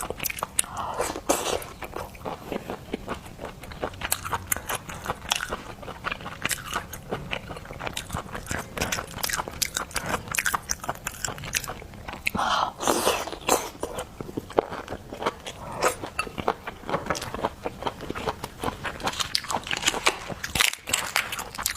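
Close-miked eating of seafood: biting and chewing with a dense run of small crunches and wet clicks at an irregular pace.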